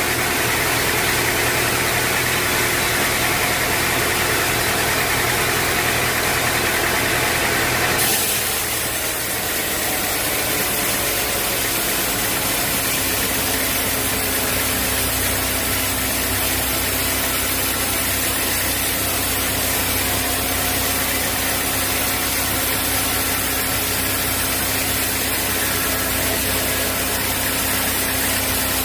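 Sawmill machinery running: a steady engine hum, with an abrupt change in its sound about eight seconds in, after which a new steady low tone settles in.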